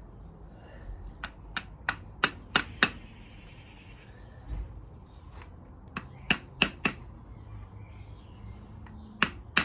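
Light hammer taps on an old crankshaft seal used as a drift, driving a new crank seal into a VW Beetle air-cooled engine's crankcase. The taps come as sharp clicks in runs: about seven a little over a second in, five or so around six seconds in, and a couple more near the end.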